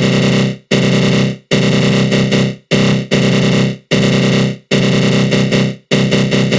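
Synthesized 'attack growl' sound effect: a low, buzzy growl from the GMS synth in FL Studio Mobile, shaped by a flanger, repeating in bursts of about a second, each cut off by a short gap.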